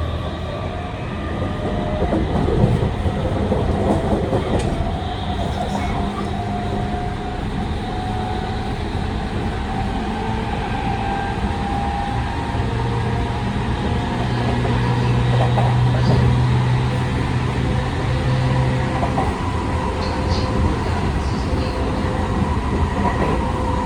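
Interior running sound of a Tokyu 5000 series motor car with a Hitachi IGBT-VVVF inverter and TKM-98 traction motors: steady wheel-and-rail rumble under several steady motor and inverter tones, with a stronger low hum from about halfway through that fades out again a few seconds later.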